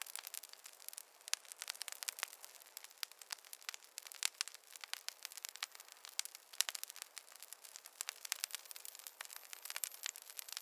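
Wood campfire crackling: irregular pops and snaps, several a second, over a faint hiss.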